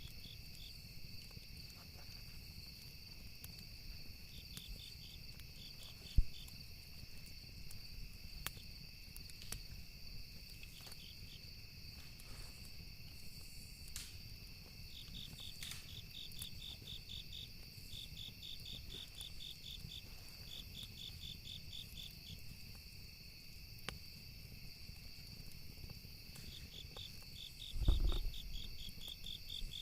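Campfire night ambience: crickets chirping in rapid pulsed trains over a steady high insect drone, with scattered sharp crackles of burning wood. A sharp pop about six seconds in and a low thud near the end are the loudest sounds.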